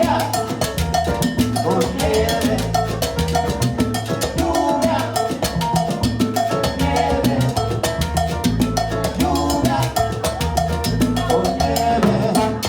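Live salsa band playing an instrumental passage: piano, bass, trombones and timbal and conga percussion keeping a steady, driving rhythm.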